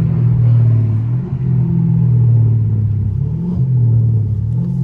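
Straight-piped 6.4-litre (392) HEMI V8 exhaust of a Dodge Charger Scat Pack, droning steadily at low revs under light throttle, with brief dips in pitch about a second in and again around three and a half seconds.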